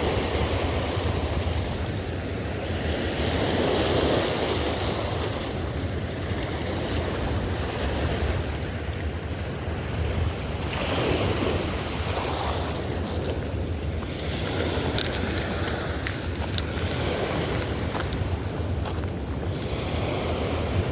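Wind rumbling on the microphone over the rushing, lapping water of a river, swelling and easing every few seconds.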